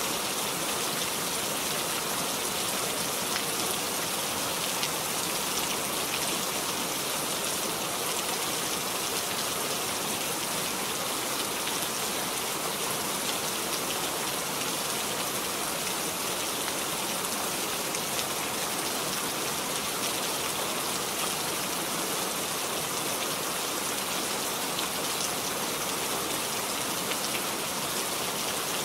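Steady rain falling, an even hiss of many drops with a few single drops standing out now and then.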